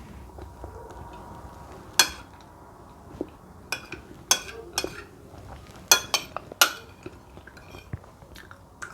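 Cutlery clinking and scraping against a plate or bowl about seven times, sharp ringing clicks bunched in the middle of the stretch, with chewing between them.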